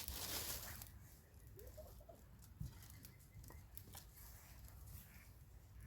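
Wood campfire crackling, with scattered sharp pops and snaps. A louder hissing rustle runs through the first second.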